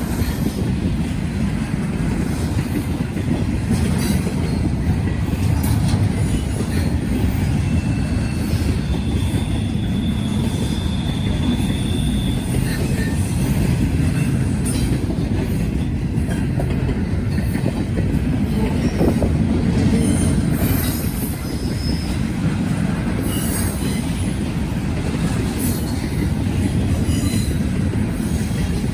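Freight train rolling past, a steady heavy rumble of wheels on rail with scattered clicks. A short high wheel squeal sounds about ten seconds in.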